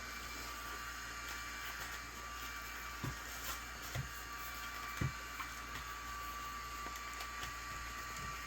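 Steady background hum with a faint high steady tone, and a few soft knocks from handling parts and packaging between about three and five seconds in.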